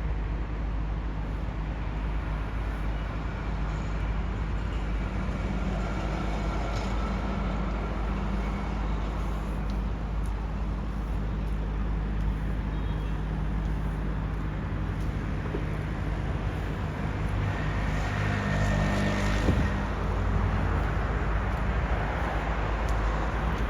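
Train rumbling with a steady low hum, growing a little louder in the last third, with a brief high squeal and a click about nineteen seconds in.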